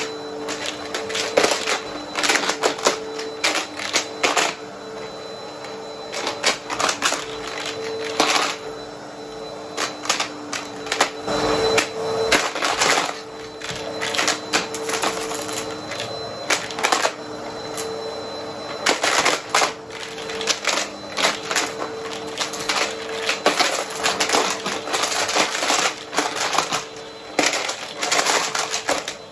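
Vacuum cleaner picking up coins: a dense, irregular clatter of coins rattling and clicking through the vacuum over the steady hum of its motor.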